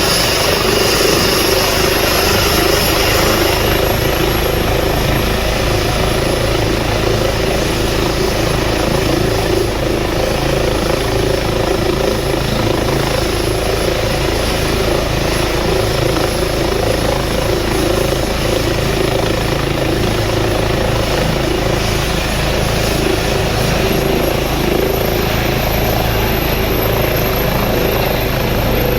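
Helicopter running at close range: a steady, loud rotor and turbine noise with a thin high whine that rises in pitch near the end.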